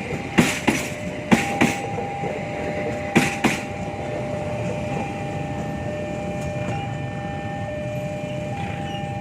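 Train wheels knocking over rail joints as carriages pass: three quick double clacks in the first three and a half seconds. After that only a steady rolling rumble remains, with a faint steady whine.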